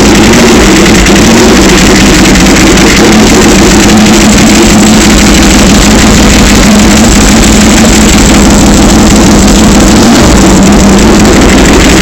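Ducati 1098S L-twin engine idling steadily and loudly, shortly after starting.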